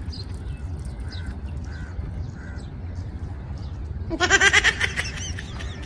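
Birds calling outdoors: a few faint short calls early, then a loud, harsh, cawing run of calls near the end, over a steady low rumble.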